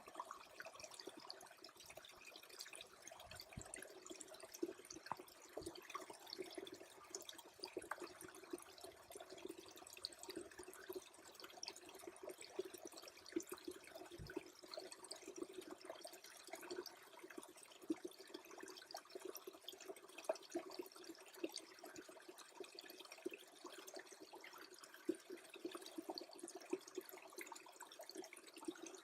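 Faint trickle of a small freezing creek, water running steadily with many tiny drips and ticks scattered throughout.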